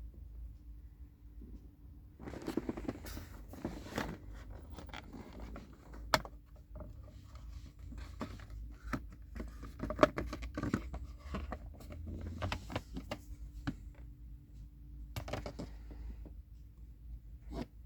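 Handling noises: scattered clicks, scrapes and rustles over a steady low hum, with one sharp click about ten seconds in.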